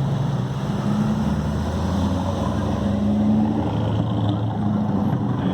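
Car engines running at low revs, their pitch shifting a few times.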